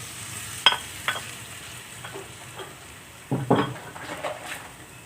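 A cooking utensil knocking and scraping against a pan as the tofu, tempeh and potato are stirred, over a faint sizzle. Two sharp knocks come about a second in, and a louder cluster of clatters follows about three and a half seconds in.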